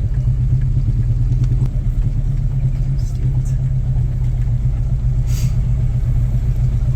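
A car engine running steadily, a constant low hum. A brief high-pitched chirp comes about five seconds in.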